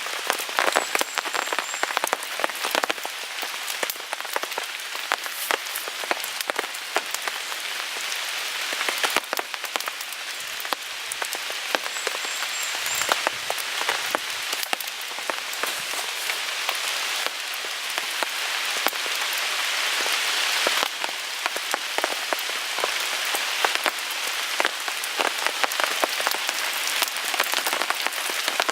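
Steady rain pattering on a tarp, mixed with the crackle and sharp snaps of a wood fire burning in a small folding grill.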